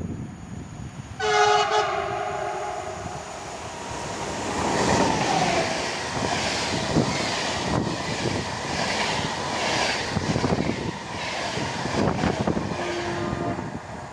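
Siemens Taurus EU44 electric locomotive sounding its horn once, for about a second. The intercity train then passes at speed, with loud rushing and repeated clickety-clack of the wagons' wheels over the rail joints.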